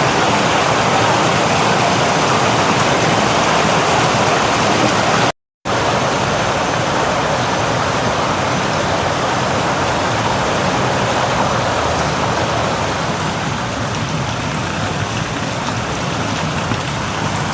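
Steady rush of falling and running water, a continuous even hiss, broken once by a sudden brief dropout to silence about five seconds in.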